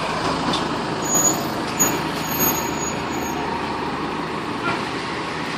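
Fire engine running on the street amid traffic noise, with a few brief high-pitched squeaks about a second and two seconds in.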